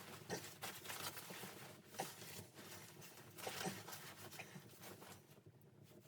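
Irregular faint crackles and taps over a soft hiss, thinning out near the end.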